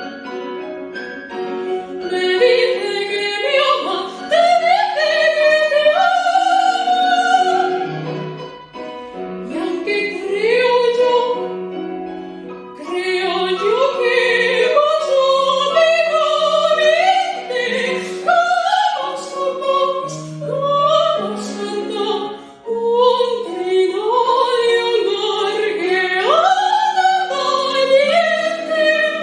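A female voice singing a soprano zarzuela aria in operatic style, with vibrato and quick running and gliding phrases, over piano accompaniment.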